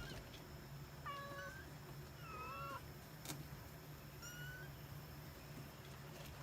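Young kittens mewing faintly: three short, high-pitched mews about a second, two and a half seconds and four seconds in, with one sharp click between the second and third, over a steady low hum.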